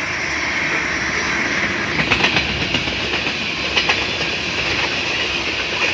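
Freight train of tank cars rolling past: a steady rumble of steel wheels on rail, with clacks over the rail joints that cluster about two seconds in and again near four seconds.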